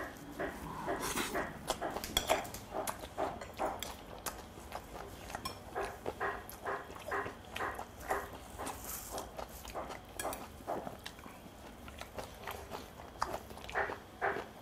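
Close-up chewing of a mouthful of spicy stir-fried pork, wet mouth sounds at about two chews a second, picked up by a clip-on microphone.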